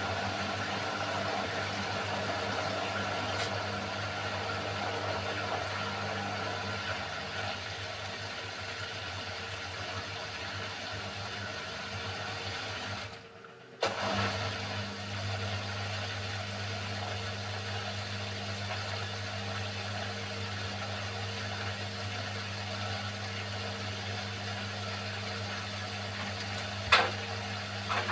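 Beko washing machine running mid-cycle: a steady motor hum with a rushing drum noise. About halfway through it goes quiet for a second and starts again with a click, and there is a sharp knock near the end.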